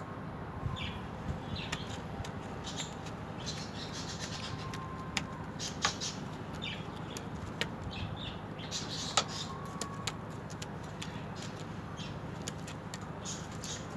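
Small cage birds giving short, high chirps at irregular intervals, with a few sharp clicks and wing flutters, over a steady low hum.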